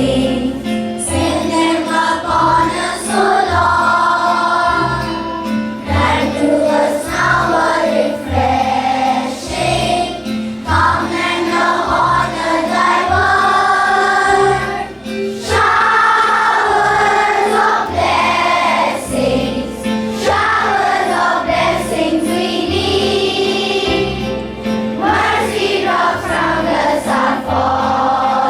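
A group of children singing a morning prayer in chorus over musical accompaniment with a steady low beat.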